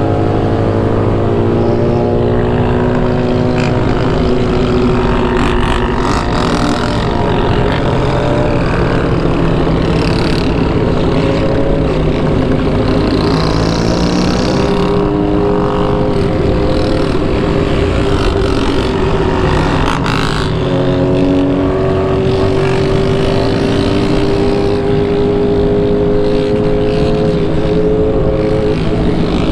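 Motorcycle engine running under way, its note climbing and dropping several times with throttle and gear changes, over a constant rush of wind on the helmet-mounted microphone.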